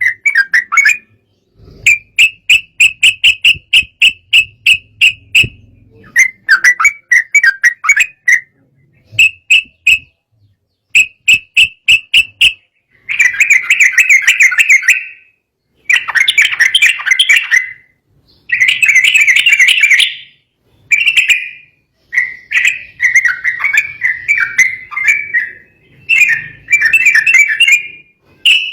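Trucukan (yellow-vented bulbul) singing in repeated bouts of quick, bubbly notes with short pauses between phrases. The phrases grow longer and denser in the middle. This is the agitated song of the kind used to provoke rival trucukan into answering.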